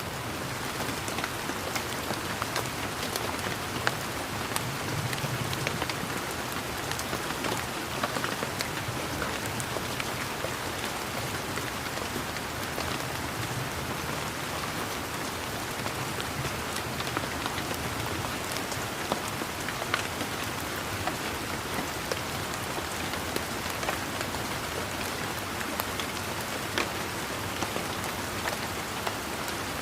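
Steady rain pattering down, a dense even hiss with many close raindrops landing as distinct ticks.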